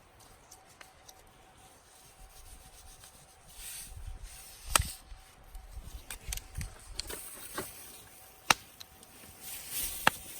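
Soft rubbing and handling noises broken by three sharp cracks, one about halfway through and two near the end.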